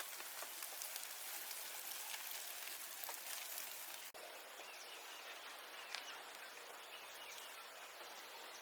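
Rain falling: a steady hiss with scattered drop ticks. The sound drops out for an instant about four seconds in, then carries on a little quieter.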